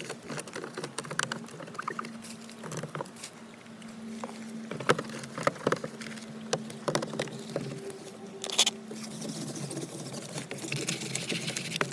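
Hands wiping down a car's plastic interior trim with a cloth: irregular rubbing, scratching and light clicks and knocks, over a faint low steady hum.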